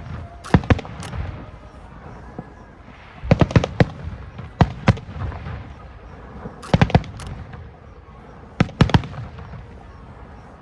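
Aerial fireworks shells bursting overhead in volleys of sharp bangs, each burst trailing off in a rumble. Five clusters of two to four bangs come about every one to two seconds.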